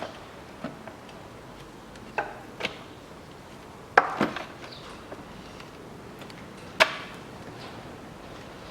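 Scattered sharp knocks and clunks of parts and tools being handled and set down during engine work. The loudest is about four seconds in, with another strong one near seven seconds.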